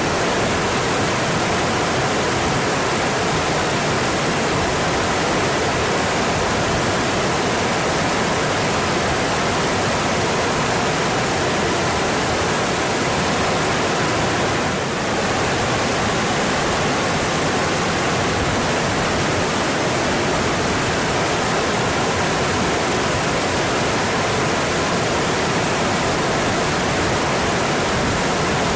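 Mountain stream rushing steadily over its rocky bed, an even, unbroken wash of water noise, with a brief slight dip about halfway through.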